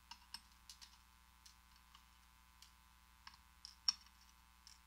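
A few faint, scattered small clicks, with one sharper click just before four seconds in: small metal lock parts, the springs and pin tumblers of a gutted American 5200 padlock, being handled and set down.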